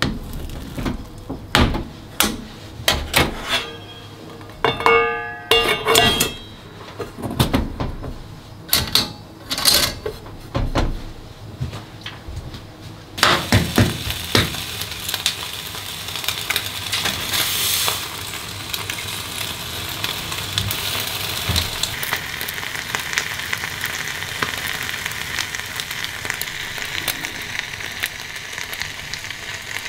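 A plastic rice paddle stirs cooked mixed rice in a metal pot, knocking and scraping irregularly, with a short squeak near 5 s. About 13 s in, this gives way to a steady sizzle: an egg frying with bacon in a small camp frying pan over a gas flame.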